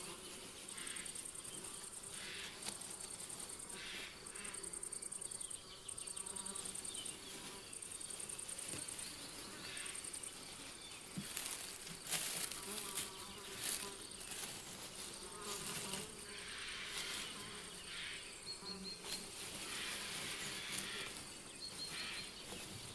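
Crickets trilling in a high, pulsing night chorus that stops and starts, with a few short rustling sounds in the middle.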